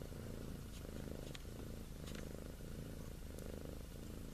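Domestic cat purring steadily, the purr pulsing with its in and out breaths about twice a second.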